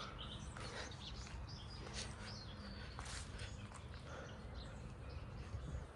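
Birds chirping faintly with short, scattered calls, over a low steady background rumble.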